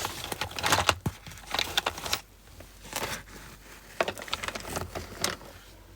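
Irregular crinkling and rustling with scattered sharp clicks, as of something being handled.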